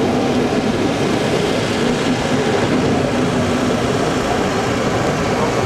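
Running noise of a 50 cm narrow-gauge mountain train, heard from inside one of its open carriages: a steady, loud rumble and rattle of the wheels on the rails with a steady hum underneath.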